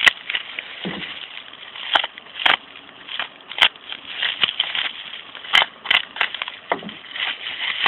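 Packaging being opened and handled by hand: irregular rustling and crinkling with scattered sharp clicks and taps.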